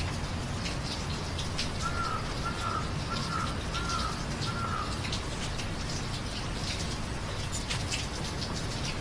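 Steady rain with sharp drops and drips landing close by. About two seconds in, a bird calls five times in a quick, even series.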